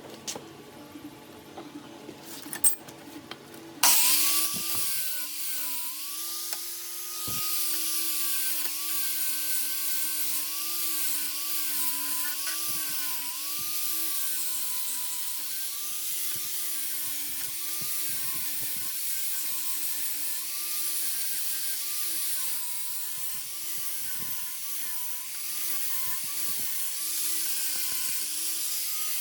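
A power tool cutting steel starts about four seconds in and keeps running: a high hiss over a whine whose pitch dips and recovers every second or two as the cut loads it.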